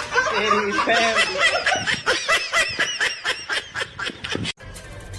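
A person laughing: a fast run of pitched laughs, about five a second, that cuts off abruptly about four and a half seconds in.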